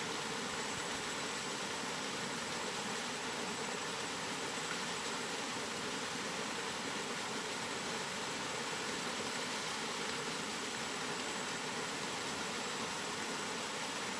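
Steady rain, a continuous even hiss with no single drops or gusts standing out, and a faint steady high tone underneath.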